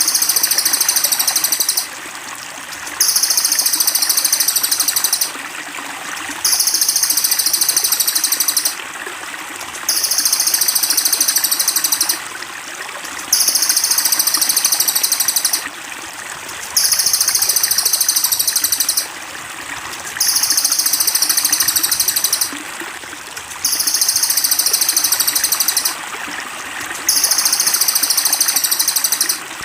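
A high, very rapid trill repeated over and over, each lasting about two seconds with about a second's pause between, over steadily trickling water: a looped songbird-training (masteran) recording.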